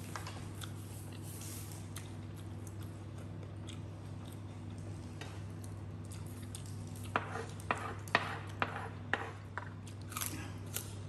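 Crisp crunching and chewing of raw cucumber, with a quick run of sharp crunches and clicks in the second half, over a steady low hum.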